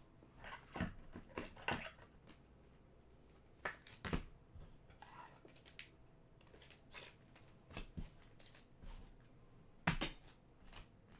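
Trading cards being handled and set down on a table: scattered light rustles and clicks, with sharper taps about four seconds in and near the end.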